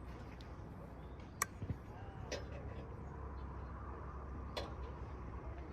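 A few sharp clicks over a quiet, steady low hum: the loudest click comes about a second and a half in, with fainter ones later.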